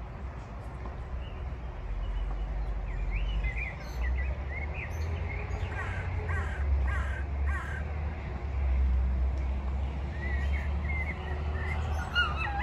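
Birds calling: many short calls in two flurries, a few a second, over a steady low rumble.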